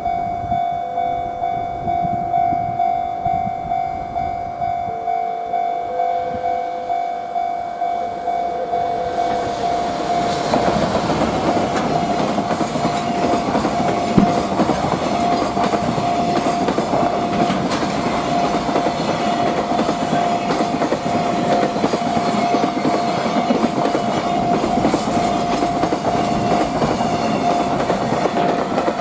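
A freight train passing, its wheels clacking over the rail joints in a steady rhythm of about two beats a second. After about nine seconds this gives way to the continuous rumble of wagons going by close. A steady high-pitched tone runs through the whole passage.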